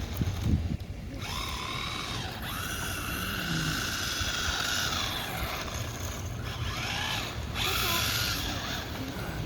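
Brushed electric motor of a 1/16-scale SG-1603 RC drift truck whining, rising and falling in pitch in several arcs as it speeds up and slows.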